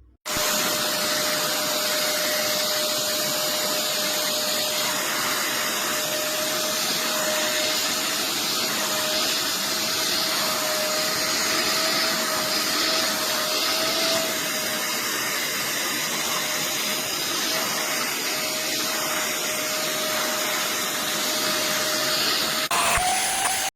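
Rivenara 450 W upholstery wet-vacuum cleaner running, a loud steady suction whine with a single humming tone. It starts suddenly, rises slightly in pitch near the end, and cuts off abruptly.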